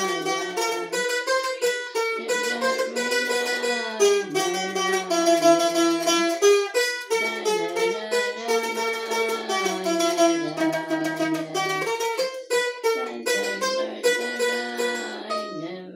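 A plucked string instrument playing a serenade melody with quick, closely spaced notes over lower bass notes.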